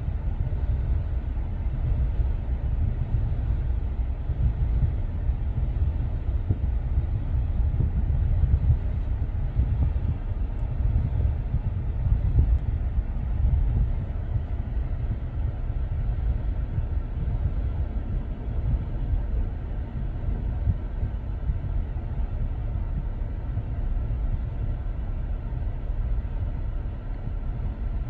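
Freight train cars rolling past, a steady low rumble of wheels on rail with rattling, unbroken throughout.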